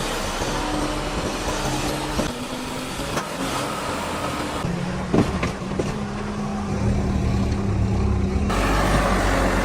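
Fiat 640 tractor's diesel engine running, its note changing abruptly a few times, with a sharp knock about five seconds in.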